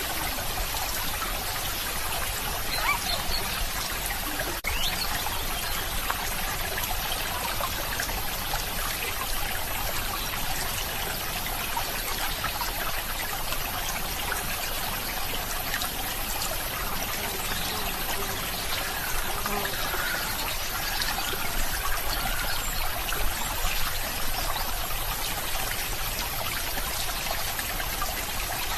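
A small stream of water flowing and trickling steadily.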